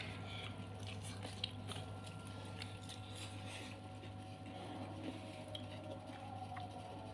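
Close-up chewing and wet mouth sounds of someone eating pecel lele (fried catfish with rice and sambal), with many small irregular clicks and smacks, over a steady low hum.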